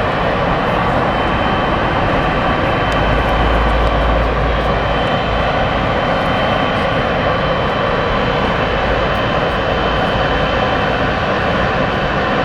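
Boeing 777 freighter's GE90 turbofan engines running steadily at close range, a continuous jet noise with a thin high fan whine over it, as the aircraft taxis.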